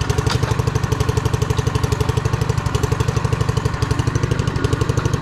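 Engine of a vehicle under way, running steadily with a low, even chugging beat of about ten pulses a second.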